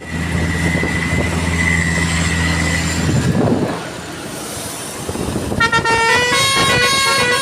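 Basuri musical air horn on a Hino truck: a low, steady blast for about three seconds, then after a short lull a tune of quick stepped notes starting about five and a half seconds in.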